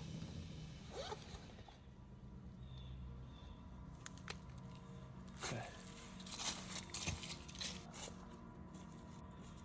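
Faint rustling and scraping of gear being handled, with a cluster of short rasps from about five to eight seconds in.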